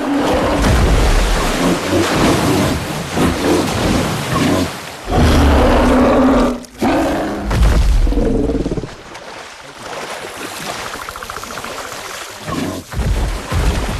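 Film soundtrack of a creature fight: loud animal roars and growls with sound effects, broken by several abrupt cuts, and a quieter stretch a little after the middle.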